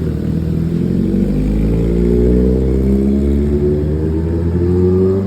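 Kawasaki Ninja ZX-10R's inline-four engine running through an SC-Project aftermarket exhaust. The engine speed climbs slowly and steadily, so the exhaust note rises gradually in pitch.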